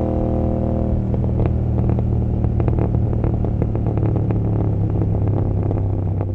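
Royal Enfield Continental GT 650's 650 cc parallel-twin running through an Emgo cafe muffler: a steady pull for about a second, then the throttle closes and the exhaust crackles and pops repeatedly on the overrun while the engine keeps running.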